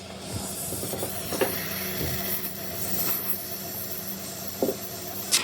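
A steady hiss over a low hum, with a few light knocks and a sharp knock near the end.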